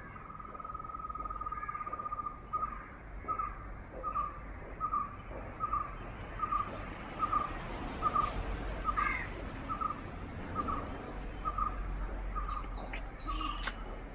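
A bird calling: one long trilled note, then short single notes at the same pitch repeated at an even pace, a little more than one a second. A sharp click near the end.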